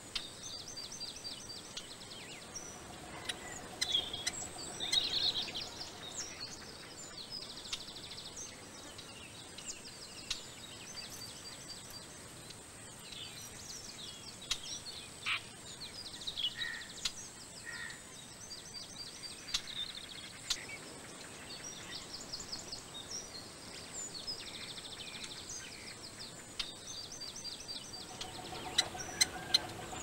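Wild birds calling in woodland: repeated short, high chirps and quick trills over a steady outdoor hiss. A few sharp taps come near the end.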